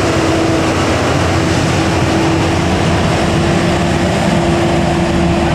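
Loud heavy truck diesel engine running, a steady rumble with a steady whine over it.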